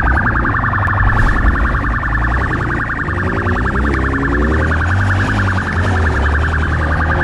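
Police siren sounding continuously with a fast, even pulsing tone, over a vehicle engine that revs up and down partway through.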